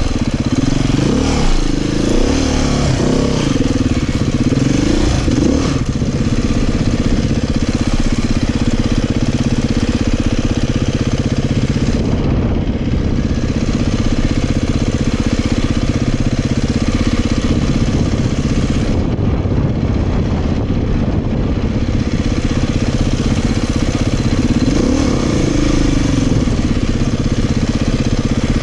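Beta 500 dirt bike's single-cylinder four-stroke engine running under way on a trail, its pitch rising and falling with the throttle over the first few seconds, holding steady for a long stretch, then revving up and back down again near the end.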